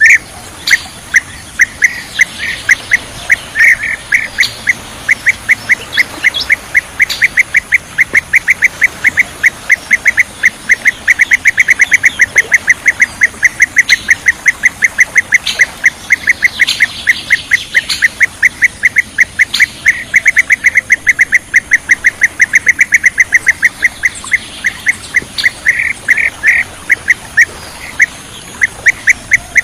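Bee-eater calls: a long, unbroken run of short chirping notes repeated about four times a second, with a few higher calls scattered above them.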